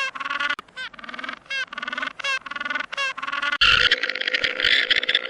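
A rapid series of short honking calls from waterfowl, each a few tenths of a second long. About three and a half seconds in it cuts abruptly to a harsher, noisier animal call.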